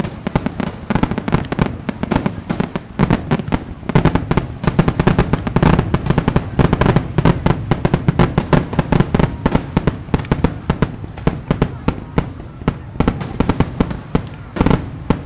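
Fireworks going off in a dense, continuous barrage of rapid bangs and crackles, thickest in the middle and thinning a little near the end.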